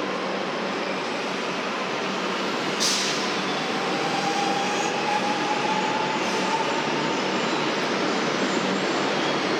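Electric suburban train pulling away from the platform, its traction motors whining and rising in pitch over the steady rumble of the train. A sharp click comes about three seconds in.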